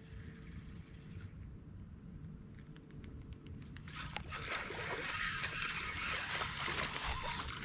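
Water splashing and sloshing at the surface, starting about four seconds in and getting louder, with irregular splashes over a low rumble.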